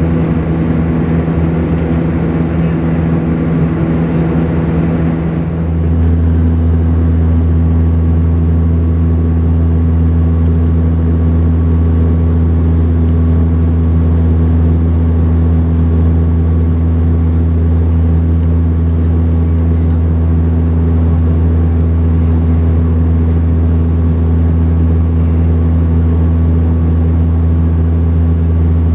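Steady cabin drone of a Saab 340B's twin General Electric CT7 turboprops in flight, a deep even propeller hum with a few higher overtones. About six seconds in, the higher hiss drops away and the lowest hum grows stronger and steadier.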